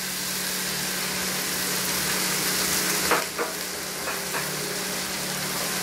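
Two eggs and browned ground beef sizzling steadily in a nonstick frying pan, the eggs just added to fry. A few short clicks or pops come about three seconds in and again a second later.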